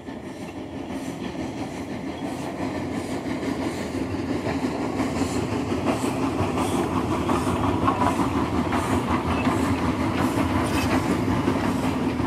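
Train running along the track, wheels clicking over rail joints at a steady pace, growing louder over the first few seconds.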